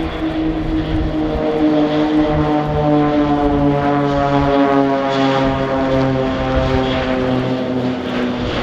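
Low flypast of an Airbus A400M Atlas's four TP400 turboprops, with four Extra 300 aerobatic planes in close formation: a loud propeller drone of several stacked tones that slowly falls in pitch as the formation passes.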